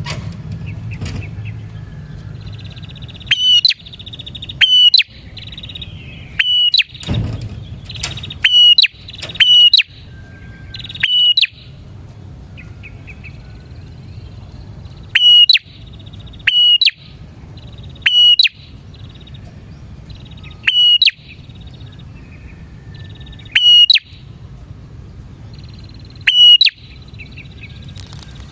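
A prinia (prenjak) calling loudly: sharp, high call notes repeated every second or two, often in quick pairs, with a softer buzzy chattering trill between them.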